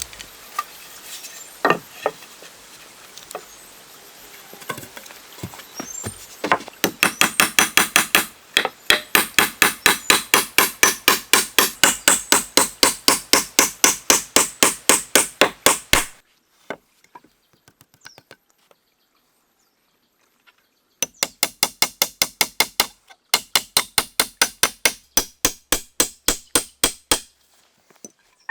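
Hammering: fast, even blows at about four a second in two long runs with a short pause between, after a few seconds of quieter scattered knocks.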